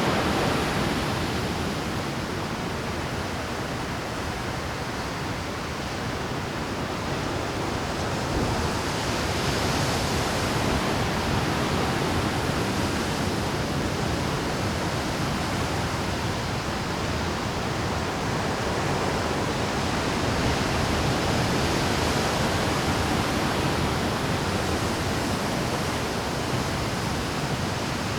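Rough Pacific surf breaking and washing over a rocky shore: a continuous rush of waves that swells a little about nine seconds in.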